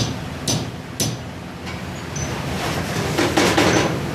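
Steady rushing roar of the petcoke furnace's firing and air blast, with two sharp metallic clicks in the first second and the roar swelling louder in the second half.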